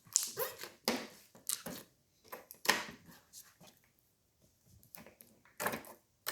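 Air bubbles popping in slime as it is squeezed and kneaded: several short, sharp pops at uneven intervals, with a lull around the middle.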